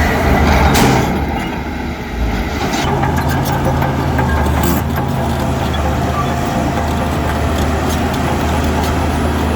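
Heavy diesel engine of earth-moving machinery running steadily, with a sharp metallic knock a little under a second in and a brief drop in engine sound just after.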